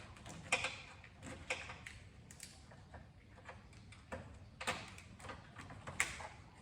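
Scattered light clicks and knocks, about five sharper ones spread irregularly, from hand work on wiring, plastic clips and cables in a car's engine bay.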